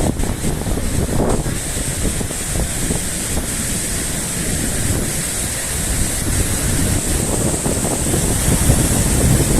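Rushing water of a freshwater stream torrenting across the beach to the sea, a steady loud hiss, with wind buffeting the microphone.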